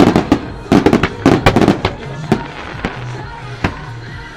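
Aerial fireworks shells bursting in quick volleys of sharp bangs and crackles, densest in the first two seconds and thinning out toward the end. The show's synchronised music plays underneath.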